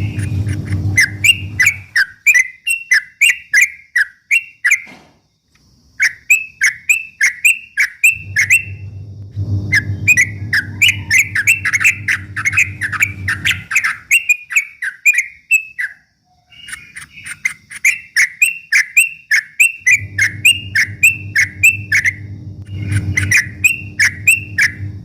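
Yellow-vented bulbul (trucukan) singing in the fast 'ropel' style: long runs of short, sharp whistled notes, about three or four a second, broken by brief pauses. A low steady hum sounds underneath for stretches of a few seconds.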